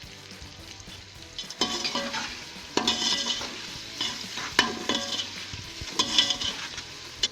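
Onion-tomato masala with whole spices sizzling in oil in a pressure cooker, stirred with a spoon in several scraping strokes about a second apart, with one sharp clink of the spoon against the pot a little past halfway.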